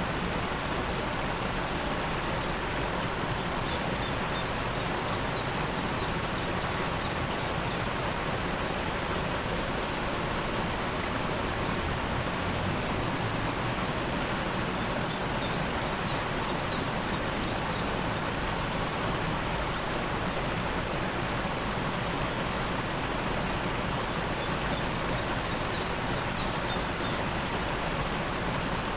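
Steady rush of a waterfall, even and unbroken. A small bird sings a short, rapid series of high notes three times, about ten seconds apart.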